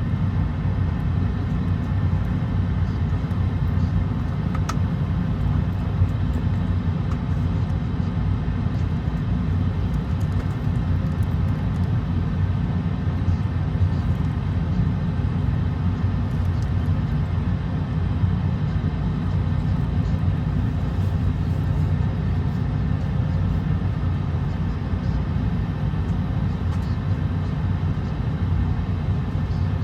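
Steady low rumble and hiss of airliner cabin noise inside an Airbus A220-100, powered by Pratt & Whitney PW1500G geared turbofans.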